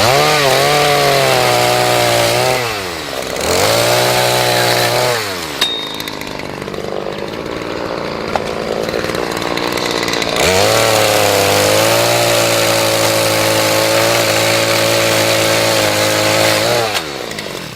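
Chainsaw engine revving up to full throttle three times to cut wood, the longest run lasting about seven seconds. Between runs it drops back to idle.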